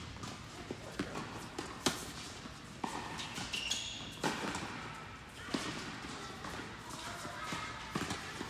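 Tennis ball being struck by rackets and bouncing on a hard court during a rally: about five sharp hits, spaced a second or so apart.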